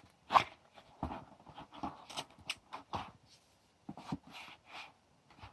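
A pedal's cardboard box and foam insert being handled as the pedal is taken out: irregular scrapes, rustles and light knocks, quieter near the end.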